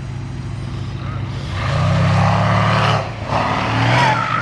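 Car engine running, then revved hard about a second and a half in; it drops off briefly near three seconds and climbs again near the end.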